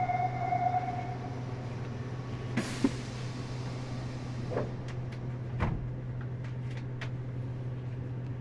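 Meitetsu 100 series electric railcar heard from inside: a steady low hum, a short rushing noise about two and a half seconds in, then a sharp click and a few scattered clicks and knocks.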